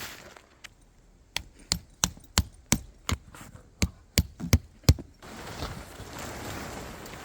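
A quick run of about a dozen sharp strikes on wood, roughly three a second, the last ones the loudest. Then an abrupt switch to a steady rushing noise.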